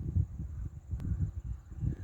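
Footsteps of a person walking on a trail, heard as irregular low thuds, with handling bumps and a sharp click on a handheld camera's microphone.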